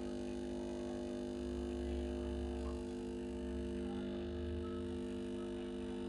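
Nespresso Vertuo capsule machine running through its start-up before the capsule spins: a steady hum with a low, uneven rumble underneath.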